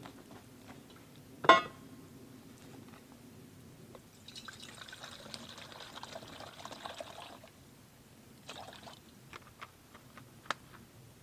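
Liquid being poured into a container for about three seconds, preceded about a second and a half in by a single sharp click or knock, the loudest sound. It is followed by a short rustle and a few light knocks.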